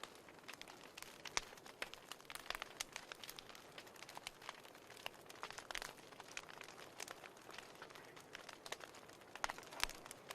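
Wood fire in a fireplace crackling: irregular sharp pops and snaps, several a second, over a soft hiss.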